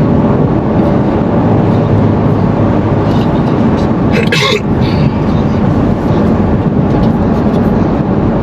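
Steady car engine and road rumble, with a brief sharp sound about four and a half seconds in.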